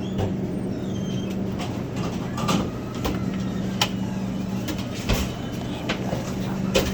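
Steady machine hum with scattered clicks and knocks: the background of a pizza shop's counter area.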